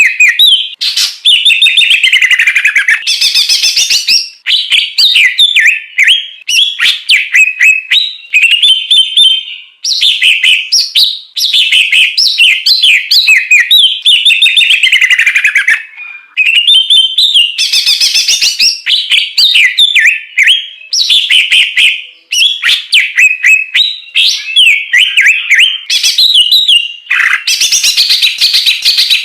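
Loud, varied songbird song as used for masteran training: rapid whistles, trills and chattering phrases, each lasting a few seconds, with short pauses between them.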